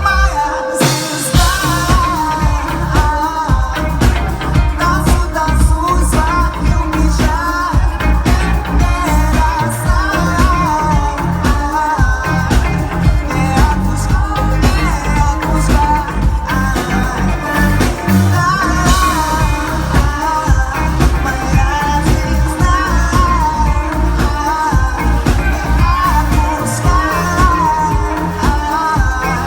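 Pop song sung live by a male singer over a steady beat, his voice wavering on held notes.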